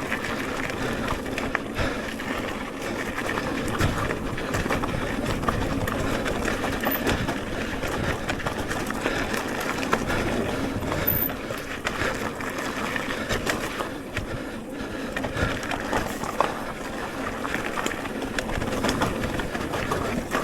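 Electric mountain bike riding a dirt trail: steady tyre and wind noise with frequent rattles and knocks from the bike over rough ground.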